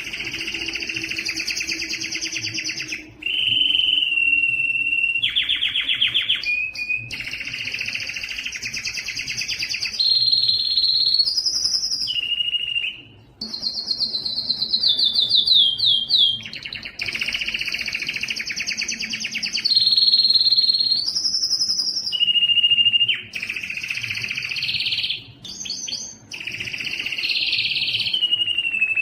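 Male Spanish timbrado canary singing a continuous song of rapid metallic trills and rolls alternating with held whistled notes and short pitch glides, broken by brief pauses.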